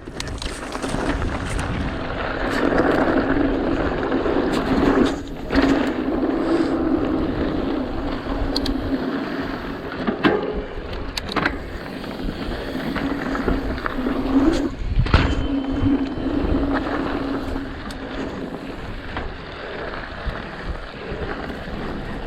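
A mountain bike rolling along a dirt singletrack: tyre noise and rushing wind on the camera, with a steady buzz and scattered sharp knocks and rattles as the bike goes over bumps.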